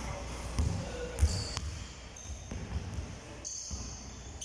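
Basketball bouncing on a hard indoor floor in a large, echoing hall: irregular low thuds, with short high squeaks in between.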